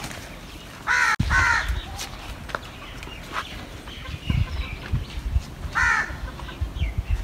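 A bird calling: two short calls about a second in and a third near six seconds, over low rumbling bumps in the second half.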